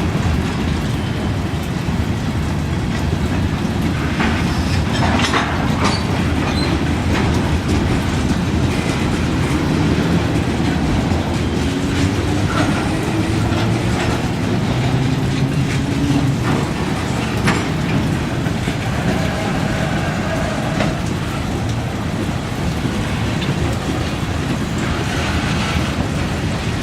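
A train rolling past: a steady heavy rumble with scattered sharp clicks and knocks from the wheels on the rails.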